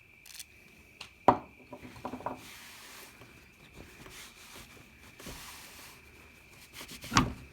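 Handling noises while the bed knife bolts are being oiled: a sharp knock about a second in, a few small clicks, two faint short hisses, and a heavier thump near the end.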